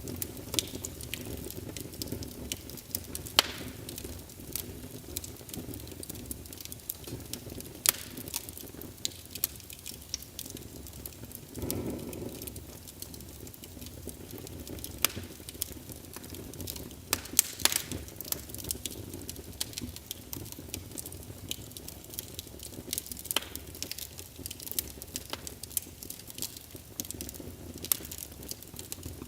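Wood fire in a fireplace crackling, with irregular sharp pops and snaps over a steady low rush of burning logs. A brief louder swell of flame noise comes about twelve seconds in.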